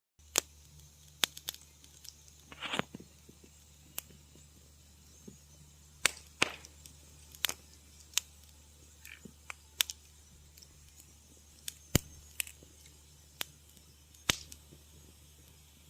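Wood fire crackling in a fireplace: irregular sharp pops and snaps, with a brief hissing sputter about three seconds in, over a steady low hum.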